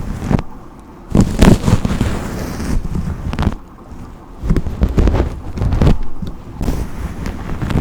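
A brush swept repeatedly through hair close to the microphone: a run of irregular, noisy strokes with short pauses between them, with a deep rumble from the nearness to the mic.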